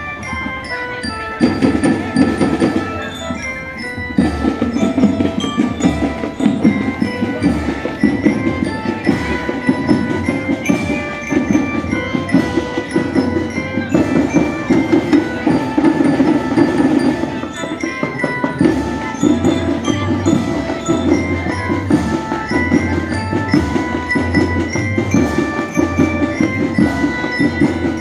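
Indonesian marching drum band playing: a bell-lyra (glockenspiel) melody of held notes over continuous snare and bass drumming.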